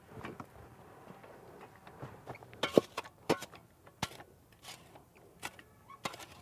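A few scattered knocks and clicks, the loudest about three seconds in.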